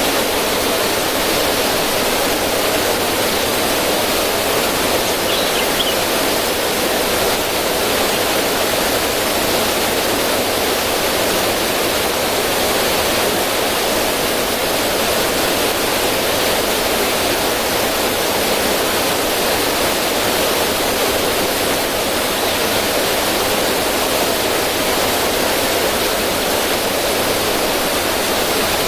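River water flowing steadily and splashing over rocks in a small cascade, an even, unbroken rushing.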